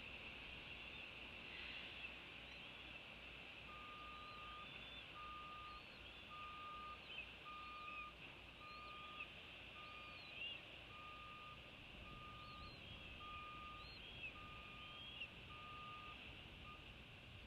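Faint vehicle reversing beeper: about a dozen evenly spaced beeps of one steady pitch, roughly one a second, starting a few seconds in. Short high chirps come and go over a steady high hiss.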